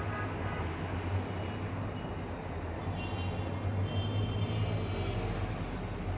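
56-inch BRB ceiling fan running: a steady low motor hum under a constant rush of air.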